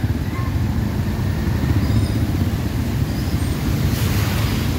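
Steady low rumble of riding through city traffic, engine and road noise, with a brief rise of hiss about four seconds in.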